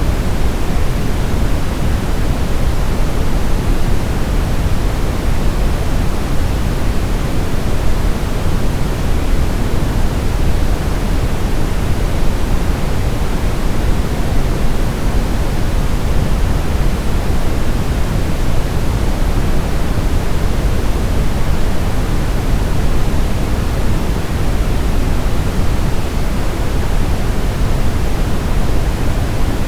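Steady generated sleep noise of the kind sold as white noise: an even, unchanging rush, fuller in the low end than in the treble.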